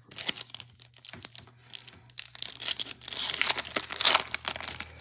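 Foil trading-card pack wrapper crinkling and tearing as it is handled and opened, with a run of sharp crackles and the loudest dense crinkling from about three to four seconds in.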